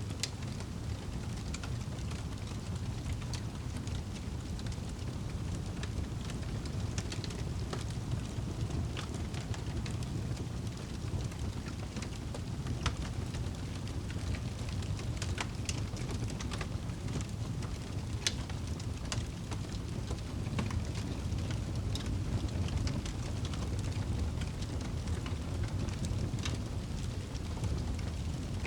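Wood fire burning in a fireplace: a steady low rumble of flames with scattered sharp crackles and pops, two louder pops about 13 and 18 seconds in.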